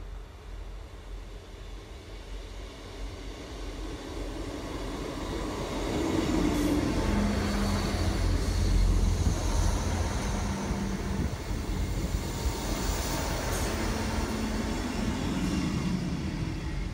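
South West Trains diesel multiple unit approaching and passing close by, with diesel engine drone and wheel rumble. The sound builds to its loudest about halfway through, then eases off as the train moves away.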